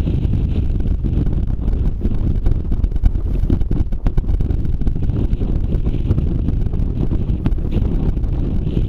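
Strong wind buffeting the microphone: a loud, steady low rumble, with a few faint ticks scattered through it.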